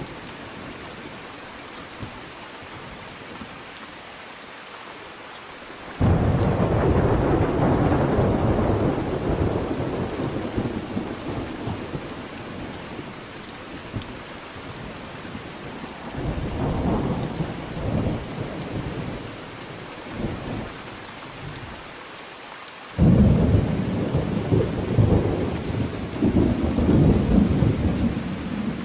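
Steady rain with thunder. A sudden loud thunderclap about six seconds in rolls off over several seconds, quieter rumbles follow in the middle, and a second sudden clap near the end rumbles on.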